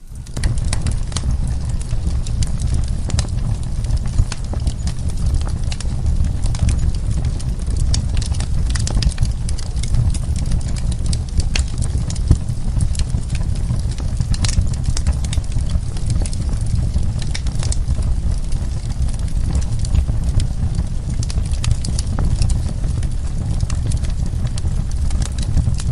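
Wood fire crackling in a fireplace: frequent, irregular sharp pops and snaps over a steady low rumble of the burning logs.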